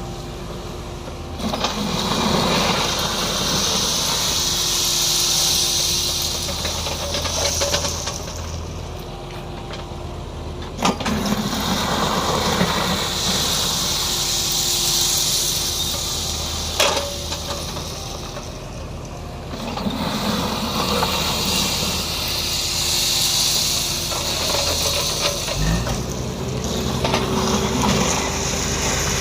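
Kubota mini excavator's diesel engine running steadily, with a high hiss that swells and fades in repeated cycles of several seconds as the machine works. A couple of sharp knocks.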